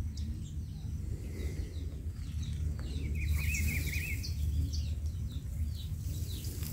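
Small birds chirping in short, repeated falling notes, with one bird giving a warbling trill about three seconds in, over a low steady hum.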